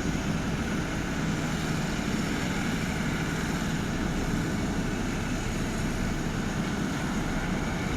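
Steady hum of an idling vehicle engine, unchanging throughout.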